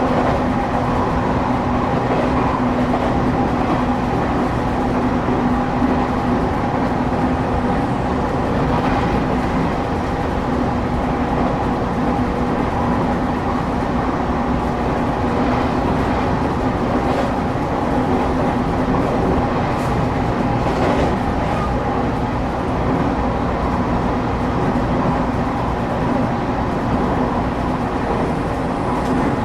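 Inside a Shin'etsu Line electric train car while it runs between stations: a steady rumble of wheels on track with an even motor hum, and a few light clicks and rattles.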